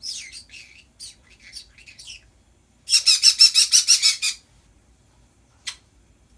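Pet birds chattering in short, varied high calls, then a loud, harsh screech about three seconds in, made of rapid pulses (around nine a second) lasting over a second, and one short call near the end.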